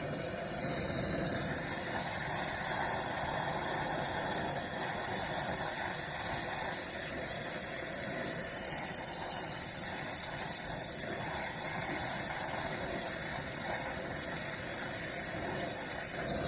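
Brazing torch flame hissing steadily while a refrigerant line joint is brazed.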